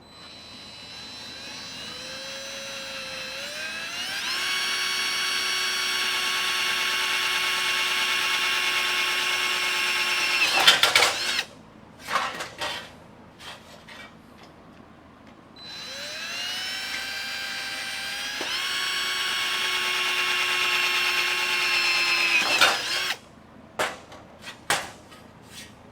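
A handheld power tool run twice on sheet steel. Each time it speeds up with a rising whine, holds a steady high whine for several seconds, then stops. A few short knocks come between the runs and after them.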